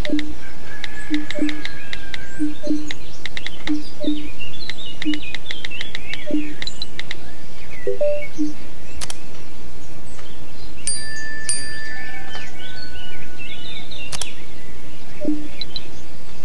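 Birds chirping and trilling, several calls overlapping over a steady background noise, with a low short note recurring every second or so.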